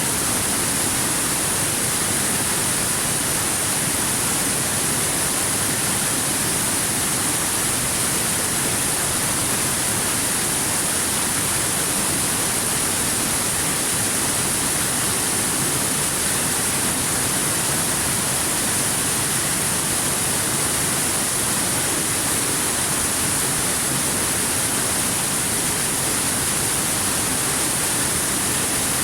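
Waterfall: a steady, unbroken rush of falling water, with a strong high hiss on top.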